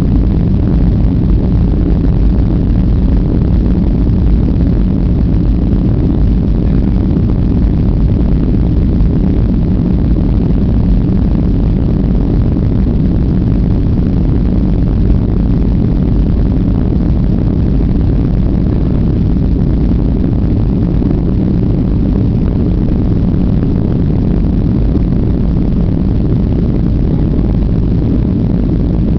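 Steady jet engine and airflow noise heard inside the cabin of a Boeing 737-800, an even low roar that holds constant throughout.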